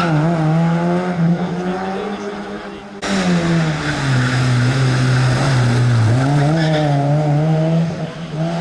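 Rally car engines on a special stage, their revs rising and dipping as they drive through the stage. The sound cuts abruptly about three seconds in and a second engine takes over.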